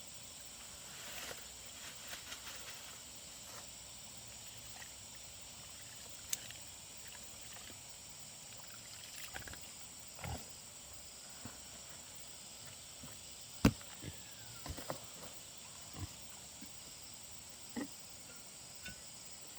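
Steady high-pitched insect drone, with scattered short clicks and knocks; the loudest is a sharp knock about fourteen seconds in.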